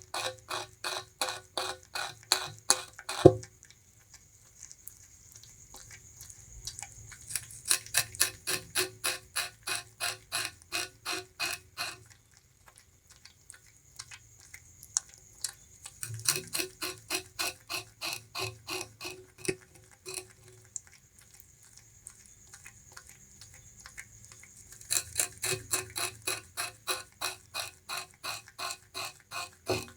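Bamboo rat chewing sugarcane: rapid, evenly spaced crunching bites, about four a second, in four bouts separated by short pauses.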